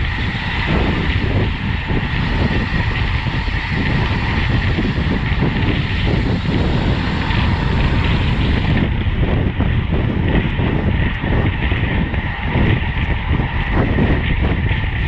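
Steady, loud wind rush on a racing cyclist's camera microphone at speed, mixed with road noise from the bike.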